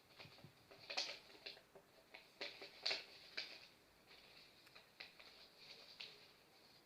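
Faint paper rustling and crinkling from a sheet being handled and folded, a run of irregular short crackles, loudest about a second in and again about three seconds in.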